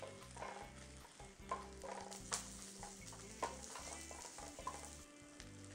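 Garlic cloves frying in hot oil in a wok with a steady sizzle, stirred with tongs that knock and scrape against the pan several times.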